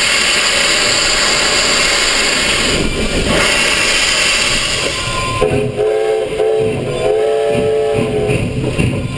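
Steam whistle of Canadian Pacific 2-8-0 steam locomotive 3716 sounding two blasts about halfway in, the second a little longer. Before the whistle there is a loud, steady rushing noise.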